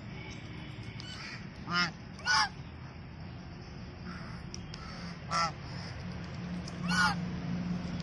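Four short, loud bird calls: two close together about two seconds in, one in the middle and one near the end, over a steady low background hum.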